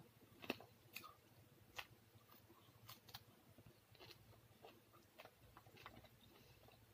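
Faint chewing and wet mouth sounds of a person eating by hand, with scattered soft clicks and ticks.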